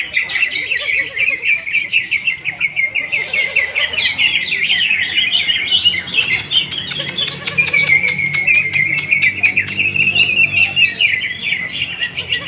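Cucak hijau (green leafbirds) singing in a continuous, rapid string of high chirps and trills.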